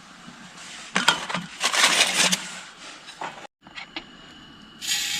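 A few knocks and clatter of cookware being handled, then near the end a steady sizzle begins as fish pieces fry in hot coconut oil.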